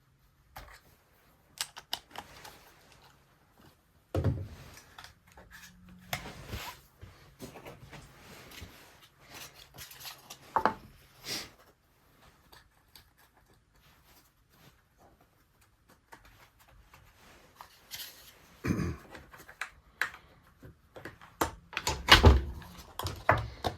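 Irregular knocks, clicks and clunks of plastic and metal parts and hand tools being handled while a Stihl HS45 hedge trimmer is reassembled, with louder thuds about four seconds in, around ten to eleven seconds, near nineteen seconds and shortly before the end.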